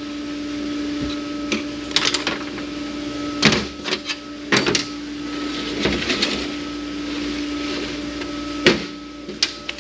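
A steady mechanical hum that stops abruptly near the end, with scattered sharp metal clicks and knocks from hand work on a transmission.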